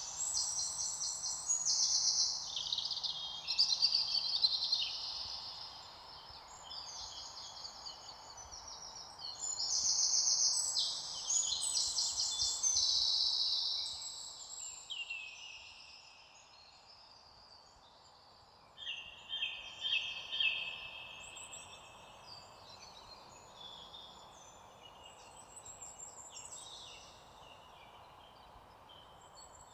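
A chorus of several small birds singing, with rapid high trills and chirps overlapping over a steady faint hiss. It is dense for the first half, then thins out, with a short flurry of song about two-thirds of the way through.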